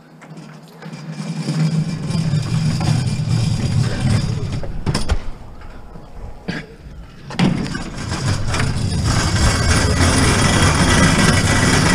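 Dolly loaded with a heavy commercial hot water tank rolling, its wheels making a steady low rumble, with several sharp knocks about halfway through.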